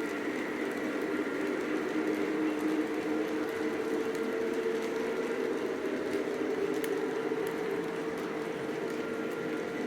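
Lionel Legacy Southern E6 O-gauge model diesel locomotive running, its onboard sound system playing a steady diesel engine hum.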